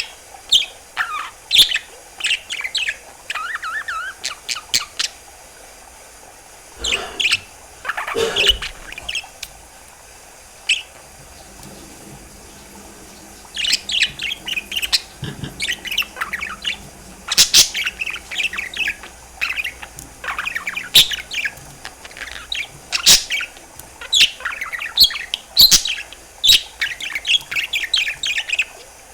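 Budgerigar chirping and warbling in quick runs of short, high calls. The calls stop for a few seconds about ten seconds in, then come back busier.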